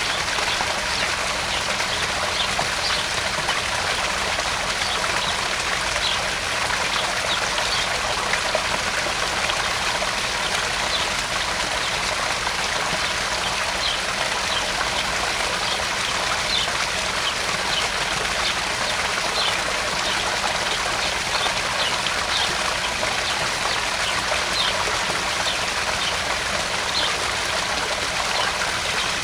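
Small garden pond waterfall pouring steadily into the pond, with many quick splashes and drips scattered over the running water.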